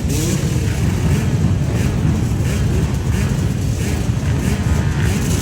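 Dirt bike engines running, with a few short rising revs over a dense, steady drone.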